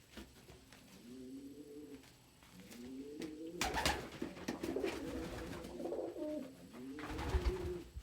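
Domestic pigeons cooing over and over in low, rising-and-falling coos. Two louder rustling rushes of noise come about halfway through and near the end.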